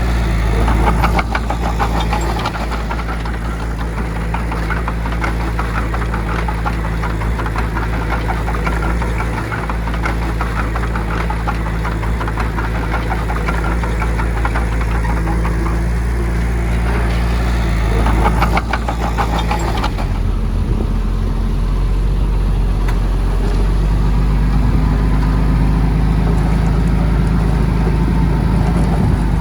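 Heavy diesel earthmoving machinery running under load with a steady engine drone and fast metallic clatter. About twenty seconds in, the engine tone shifts to a lower, smoother drone.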